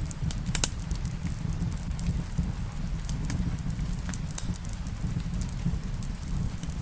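Wood fire in a fireplace: a low steady rumble with frequent irregular sharp crackles and pops, over a soft hiss of rain.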